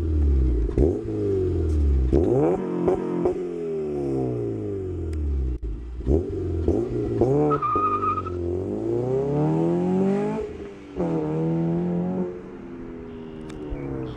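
Modified Honda Civic Si engine revving up and down repeatedly through a Skunk2 header and Mugen cat-back exhaust, its pitch climbing and dropping again several times, with a brief high whine a little past halfway.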